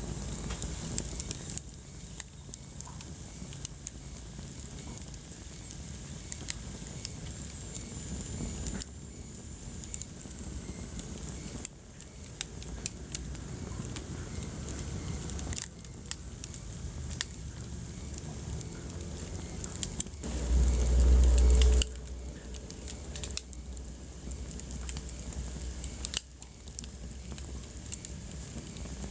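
Wood fire crackling, with many sharp pops and snaps at irregular intervals. About twenty seconds in comes a loud low rumble lasting a second and a half.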